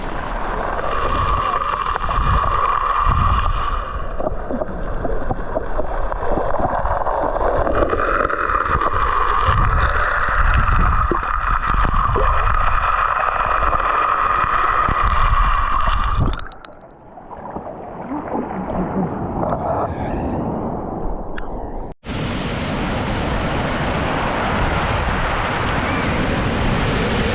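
Sea water sloshing and gurgling, muffled as if the microphone is at or under the water's surface. After an abrupt cut near the end, a steady open-air wash of surf.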